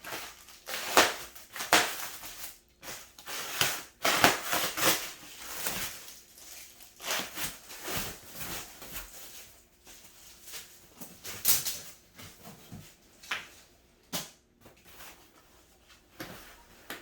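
Cat tower parts being unpacked by hand: irregular crackling and rustling of packaging, with knocks of the parts being moved.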